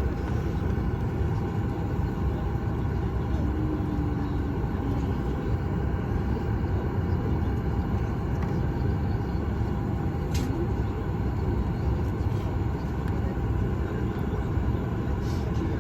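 Steady low rumble of a Boeing 737 MAX 8 passenger cabin on the ground, with a steady hum running through it and a couple of faint ticks.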